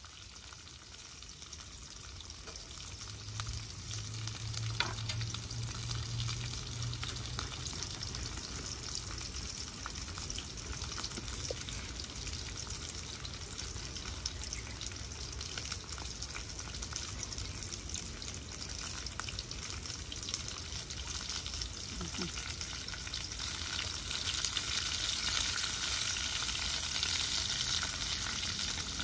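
Food frying and sizzling in hot oil, with a steady crackle that gets louder near the end.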